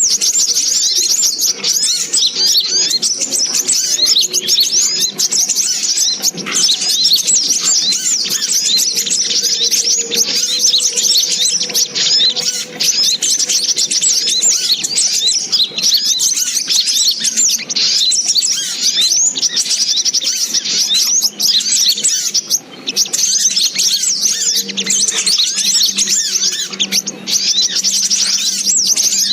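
Sogok ontong (spiderhunter) calls played as a bird-trapping lure: a dense, unbroken stream of rapid, high-pitched chirps.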